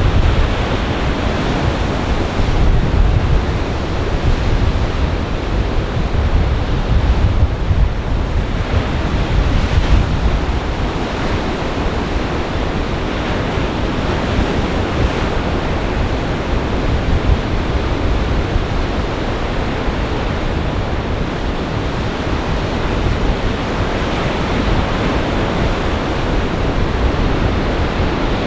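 Lake Michigan surf breaking in a gale, a steady rush with slow swells in loudness, and strong wind buffeting the microphone with a deep rumble.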